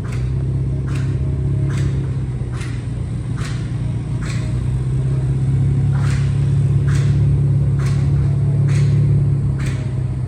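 Infiniti Q50 twin-turbo V6 with its muffler deleted, running with a loud, deep exhaust rumble that swells from about six seconds in and eases near the end. A regular tick sounds a little more than once a second throughout.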